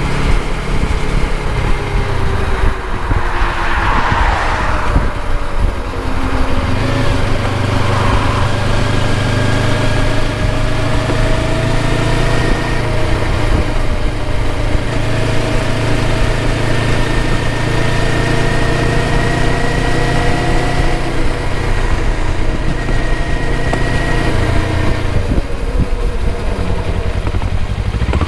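Motorcycle engine running under way, with steady wind and road noise. The engine pitch falls over the first few seconds, then holds steady and rises slowly.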